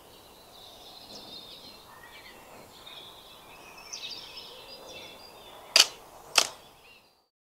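Small birds chirping and singing faintly, then two sharp clicks about half a second apart near the end, after which the sound cuts off.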